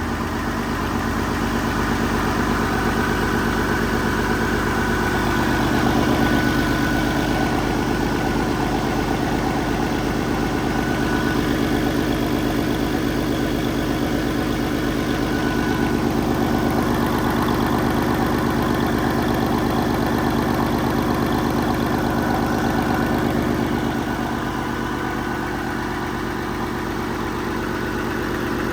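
2014 PACCAR MX-13 12.9-litre inline-six diesel engine running steadily at idle, a little louder through most of the stretch and easing back slightly near the end.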